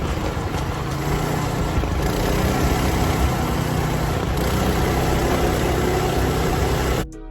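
Four-wheeler (ATV) engine running, with loud rushing noise over it; it cuts off abruptly about seven seconds in.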